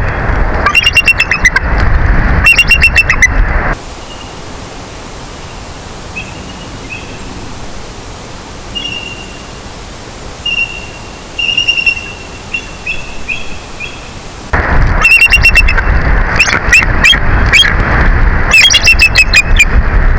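Bald eagles' high, chattering calls, in quick runs of short notes, over heavy wind buffeting the microphone. About four seconds in, the wind drops out to a steady hiss with faint scattered chirps. The loud wind and the chattering return a little before the end.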